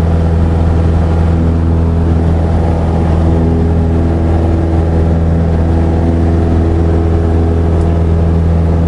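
Cessna 172SP's four-cylinder Lycoming engine and propeller in flight, a steady drone whose pitch holds constant.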